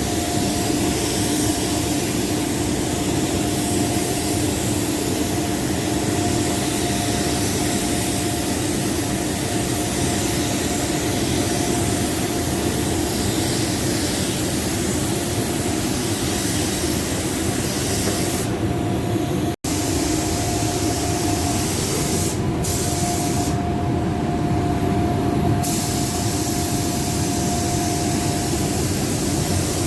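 Compressed-air paint spray gun hissing steadily as paint is sprayed on a car, over a steady mechanical hum. The hiss breaks off briefly a few times past the middle.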